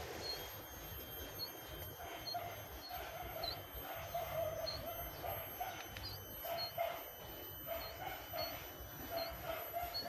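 Young caged jongkangan birds chirping: short high chirps repeated irregularly, roughly one every half second to a second.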